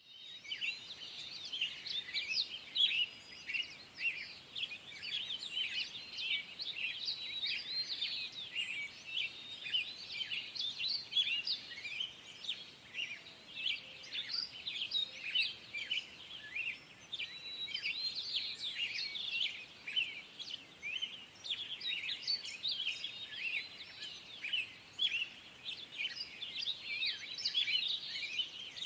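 A chorus of many woodland songbirds singing at once: a dense, unbroken stream of quick high chirps, whistles and trills from several birds overlapping.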